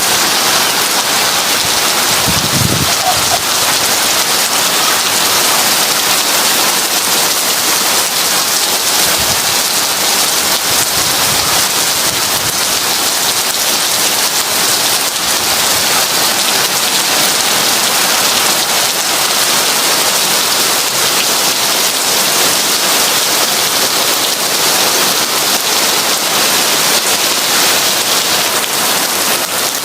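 Heavy rain pouring steadily, with a brief low rumble about two and a half seconds in.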